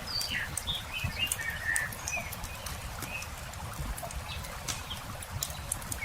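Wood campfire crackling with frequent sharp pops over a low steady rumble, while small birds give short chirps.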